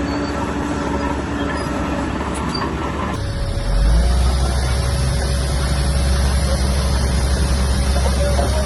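Diesel engines of heavy earth-moving equipment running steadily. About three seconds in, the sound switches abruptly to a louder, deeper engine rumble.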